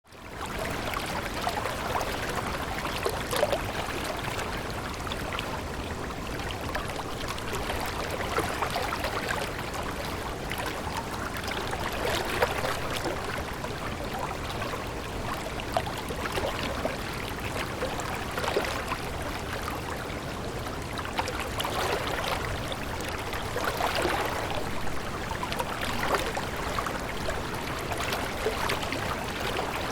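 Running water of a stream, a steady babbling and trickling that fades in over the first second.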